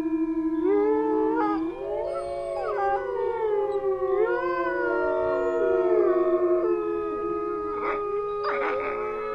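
A pack of wolves howling in chorus: several long howls overlap at different pitches, each rising and falling. A short rougher, noisier call breaks in near the end.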